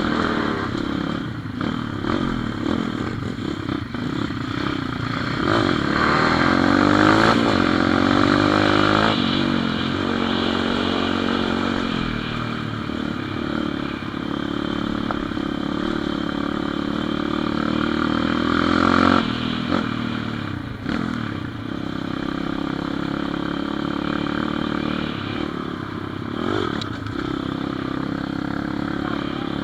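Pit bike engine running under way, its revs rising and falling as it rides. The engine is loudest about a third of the way in and cuts back sharply about two-thirds through.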